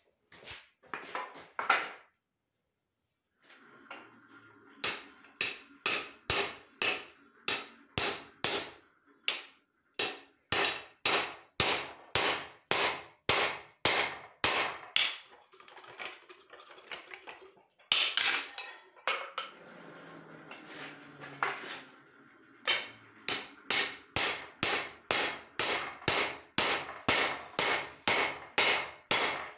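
Hand hammer striking leaf-spring steel on an anvil during forging: steady runs of blows, about two a second, with a pause of a few seconds midway.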